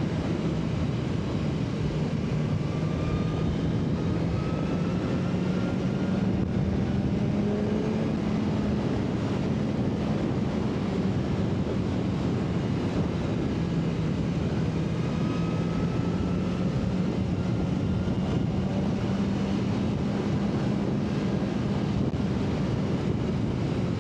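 BMW S1000RR inline-four engine running steadily at cruising revs under way, its pitch climbing a little about a third of the way in and then holding, with wind rushing past.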